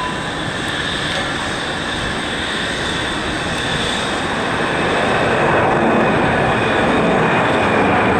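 Airbus A321 IAE V2533-A5 turbofan jet engines running with a steady rushing noise and a whine, growing louder from about five seconds in.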